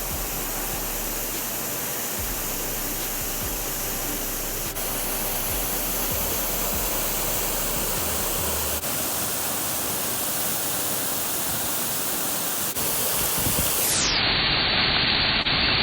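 Waterfall water rushing and splashing in a steady, even roar. Near the end it turns a little louder and duller.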